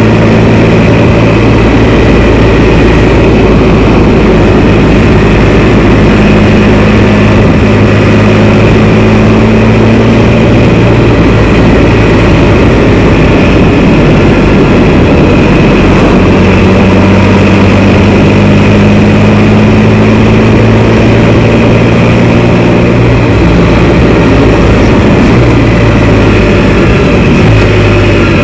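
Can-Am Spyder three-wheeled motorcycle running on the road, loud and steady. Its engine note steps up and down a few times as throttle and speed change, over a constant rushing noise.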